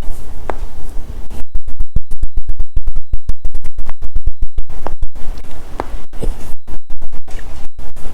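Loud crackling and buzzing from a badly connected microphone. About a second and a half in it starts cutting in and out many times a second, with a faint steady high whine running through, the sign of a loose or poorly seated mic plug.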